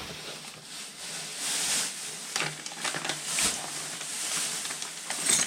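Rustling and irregular light clicks as small hardware and its packaging are handled and sorted through.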